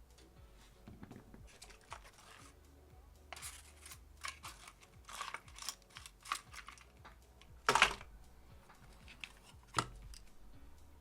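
Irregular clicks, taps and short scrapes of small tools and parts being handled on a workbench, the loudest a brief scrape or rattle about eight seconds in and a sharp click near the end.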